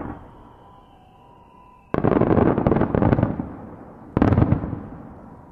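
Japanese star mine firework barrage: aerial shells bursting in a rapid volley. A dense cluster of loud booms and crackles comes about two seconds in, lasts over a second and fades, then a second, shorter volley hits about four seconds in and dies away.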